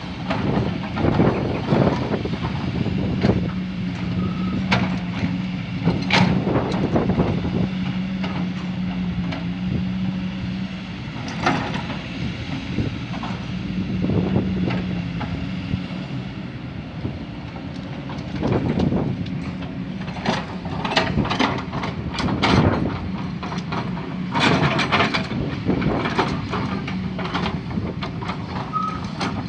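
Heavy diesel construction machinery running steadily, with repeated metallic clanks and knocks of the kind an excavator at work makes.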